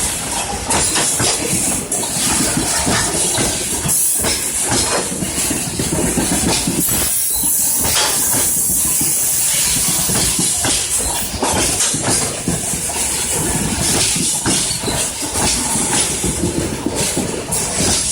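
Freight train rolling past close by: a loud, steady rumble of wagons with repeated clatter of wheels over rail joints.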